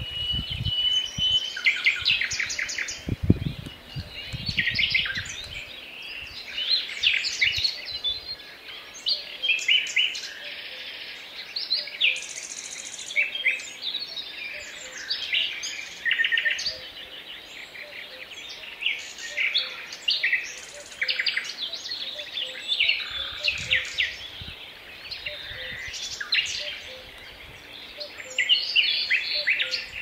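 Several songbirds singing at once in a forest dawn-chorus mix, with overlapping chirps, fast trills and whistled phrases. A few low thuds sound in the first few seconds.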